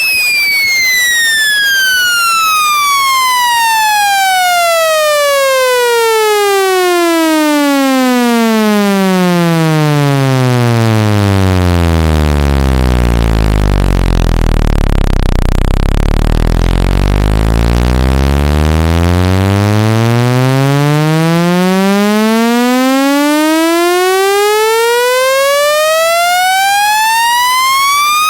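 Electronic speaker-cleaning test tone sweeping steadily down in pitch from a high whine to a deep bass hum about halfway through, then sweeping back up. It is the low-frequency sweep played at full volume to vibrate water and dust out of a phone speaker.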